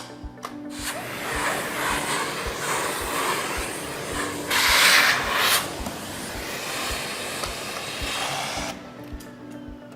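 Miele Blizzard CX1 bagless vacuum cleaner running, a rushing suction noise that starts about a second in, is loudest briefly around the middle, and stops near the end. Background music with a steady beat plays underneath.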